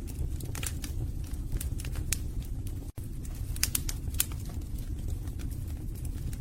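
Wood logs burning in a fireplace: irregular sharp crackles and pops over a low, steady rumble of the flames. The sound drops out for an instant about three seconds in.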